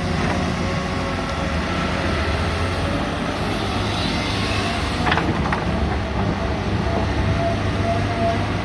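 Six-cylinder diesel engines of two hydraulic excavators, a CAT 320 NextGen and a Komatsu PC200-7, running steadily under load while digging rock. There is a sharp clank about five seconds in.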